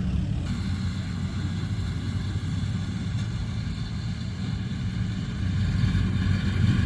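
Rice combine harvester running steadily: a low engine drone with a higher mechanical whine layered over it from about half a second in.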